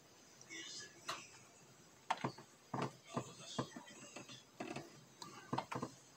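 A dozen or so irregular sharp taps and knocks, mostly in the second half, with faint high chirps about half a second in.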